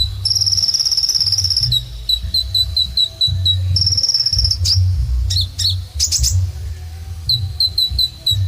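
Kolibri ninja sunbird singing: a run of short high chirps, about four a second, broken twice by a long buzzy trill and, in the middle, by a few sharp falling notes, over a steady low rumble.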